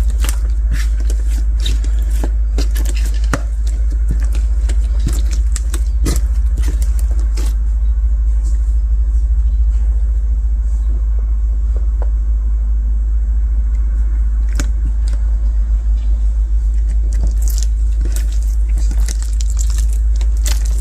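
Translucent bead slime being squeezed and pressed, its beads crackling and clicking in quick irregular runs that thin out in the middle and pick up again near the end, over a steady low hum.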